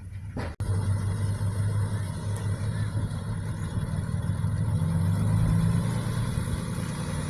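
Heavy diesel engine of earthmoving machinery running steadily, its note rising and getting a little louder about five seconds in, then easing back. The sound drops out for an instant just after the start.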